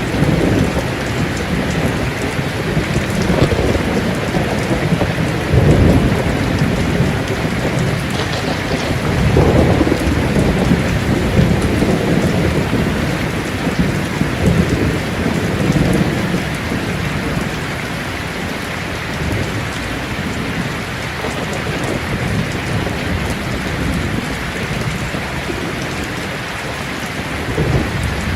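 Heavy rain on a tin roof, a steady hiss and patter, with thunder rolling underneath. The thunder swells several times: about six seconds in, again around ten seconds in, and near the end.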